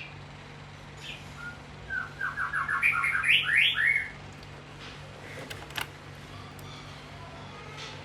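A songbird sings a fast run of short notes that climb in pitch, lasting about two seconds and starting a couple of seconds in. A few sharp clicks follow, over a steady low hum.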